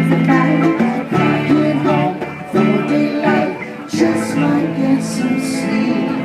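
Live acoustic band music: acoustic guitar and other plucked strings playing a song, with notes changing about once a second.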